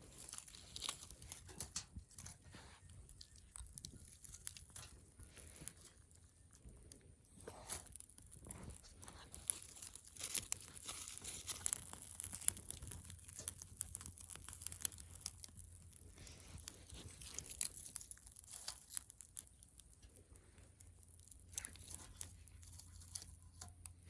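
Close, irregular rustling and tearing with scattered sharp clicks and crinkles, busiest in the middle stretch.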